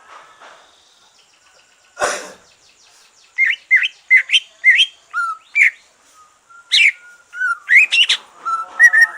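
Green leafbird (cucak ijo) singing: a quick run of short, sharply rising whistled notes that starts about three seconds in and gets denser toward the end. About two seconds in there is a brief noisy burst before the song.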